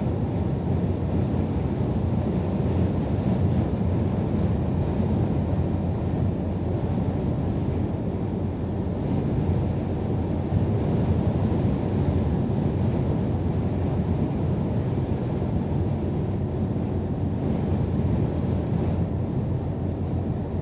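Scania R500 truck driving at a steady pace: a constant low rumble of its 13-litre straight-six engine mixed with tyre and wind noise, holding even throughout.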